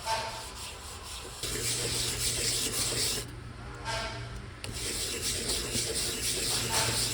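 De-burring of cut metal anodizing sample pieces: abrasive rubbing and scraping in two long passes, the first starting about a second and a half in and the second starting near the middle. A short scrape comes right at the start and another about four seconds in, and a low steady hum runs under the long passes.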